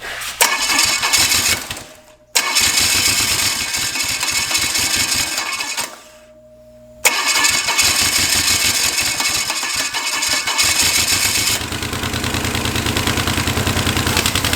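Starter cranking a 283 small-block Chevy V8 that has one cylinder head removed, in three bursts with short pauses between them, the last and longest about eight seconds. The engine does not catch: it is flooded.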